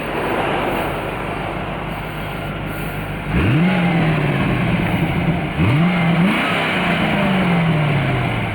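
1995 Chevrolet Corvette's 5.7-liter V8 accelerating: after a few seconds of steady road noise, the engine note climbs sharply, dips briefly at a gear change and climbs again, then falls away slowly as the throttle eases.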